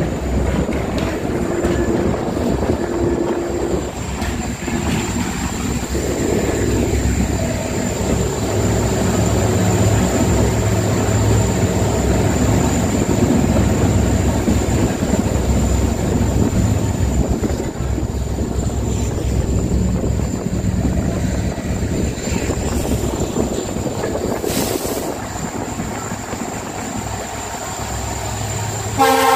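Running noise of a passenger train heard from its coach: a steady din of wheels on rails, with a few faint tones coming and going. It cuts off suddenly at the very end.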